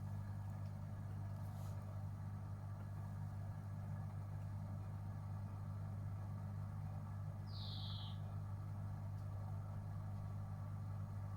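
Gorenje UseLogic 65165 washing machine running with a steady low hum. A brief high chirp comes about eight seconds in.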